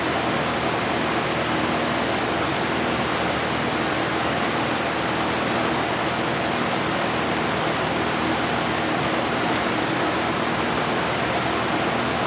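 Steady rushing noise of a running fan or air blower, with a faint low hum under it.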